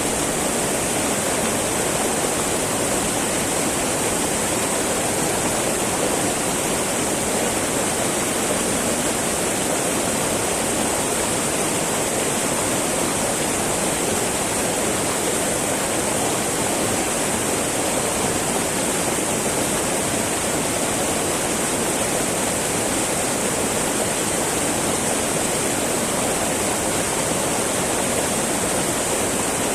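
Small mountain river babbling steadily over rocks, an even rushing of water with no breaks.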